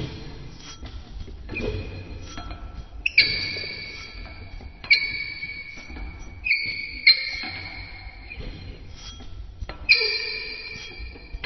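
Metal valve handwheel being turned, with quiet scraping and rubbing and about five sharp metallic clanks that each ring on and fade over a second or so.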